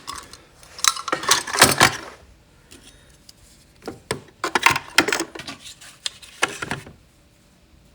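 Metal hand tools clinking and knocking as they are set into the slots of a wooden toolbox, in three short bursts with quieter gaps between.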